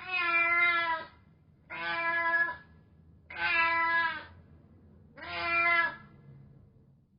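Domestic cat meowing four times, each meow under a second long and roughly evenly spaced.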